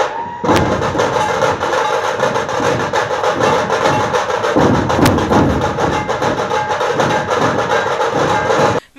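Dhol-tasha drum troupe playing a fast, dense beat of rapid strikes, which cuts off suddenly near the end.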